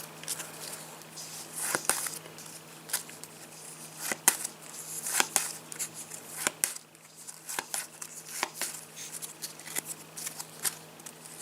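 Trading cards being handled: irregular sharp taps and clicks of card edges and faces knocking together and being set down, with light card rustling in between.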